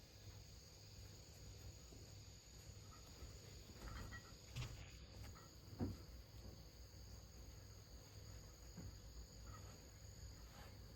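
Faint, steady chorus of insects such as crickets, holding two constant high-pitched tones, with a few soft knocks around the middle.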